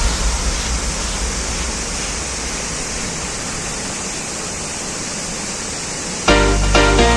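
Waterfall: the steady rush of falling water. Loud music with a beat cuts in near the end.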